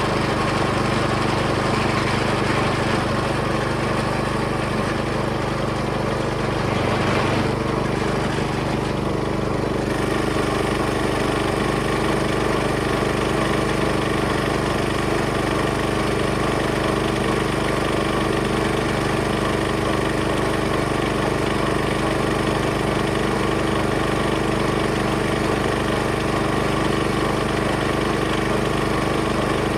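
Small engine on a vintage gold trommel wash plant running steadily, driving the trommel and its water pump, with a brief change in its sound about seven seconds in.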